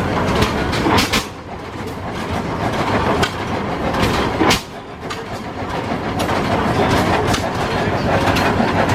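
1908 Hart-Parr 30-60 tractor's slow-running, oil-cooled two-cylinder engine running, with sharp exhaust reports at irregular intervals over a steady mechanical clatter.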